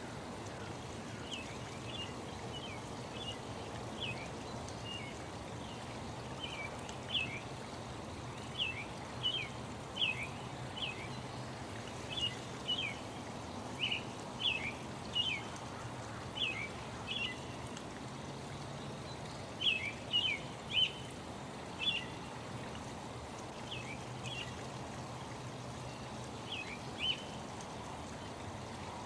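Small birds chirping in short, sharp notes, often two or three together, repeating every second or so over a steady rush of running water.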